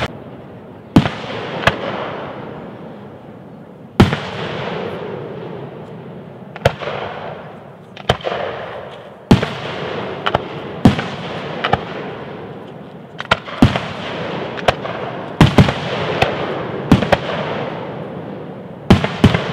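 Aerial fireworks shells bursting one after another: sharp bangs a second or two apart, each trailing off into a fading echo. The bursts come faster, often in quick pairs, in the second half.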